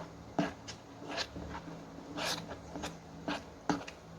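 Slime of liquid silicone glue and water being stirred in a small plate: irregular scraping and tapping strokes, about eight in all, as the water is worked into the slime.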